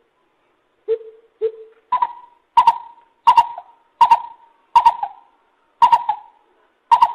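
Lesser coucal calling: two low hollow hoots, then a run of seven louder, higher-pitched notes at a steady pace of a bit more than one a second.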